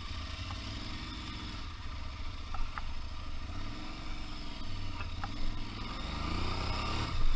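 Aprilia Tuareg 660 adventure motorcycle's parallel-twin engine riding off-road, its revs rising and falling several times as the throttle is worked, and climbing again near the end.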